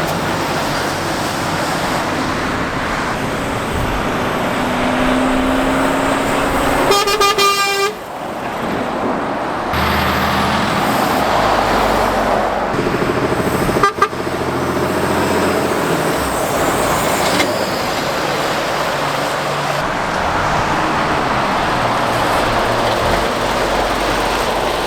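Lorries and other traffic passing close by on a main road, engines and tyres running steadily. A vehicle horn sounds once, for about a second, about seven seconds in.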